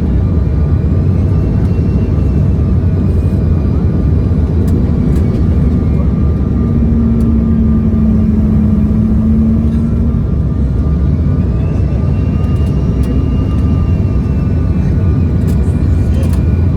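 Cabin noise inside a CRJ-900 regional jet in flight: a steady, loud rush of airflow and engine noise from its rear-mounted GE CF34 turbofans, with faint engine whines that drift slowly up and down in pitch.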